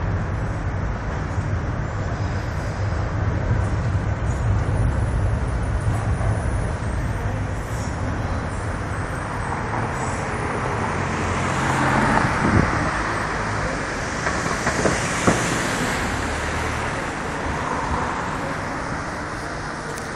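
Docklands Light Railway train running along an elevated viaduct over a steady hum of city traffic. Its sound swells through the middle, with two sharp clicks.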